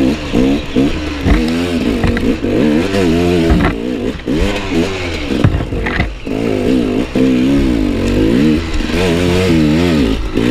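Enduro motorcycle engine revving up and down again and again as the throttle is opened and closed, its pitch rising and falling every second or so with short drops off the throttle.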